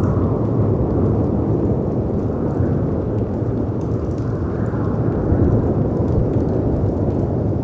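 Storm ambience of wind and sea surf as a deep, steady rumble that swells twice in the middle, with a few faint crackles from a fireplace.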